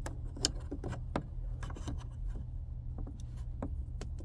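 Small scattered clicks and scrapes of a screwdriver prying plastic trim clips loose from a semi-truck's door panel, with a sharper click about half a second in, over a steady low hum.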